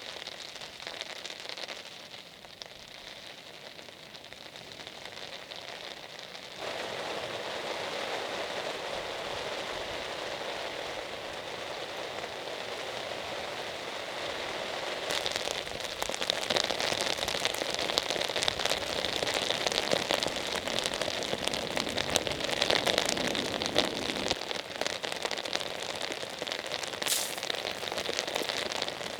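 Heavy rain falling, drops hitting a surface. About six and a half seconds in the sound changes abruptly, and from about halfway through it grows louder, with many sharp drop hits.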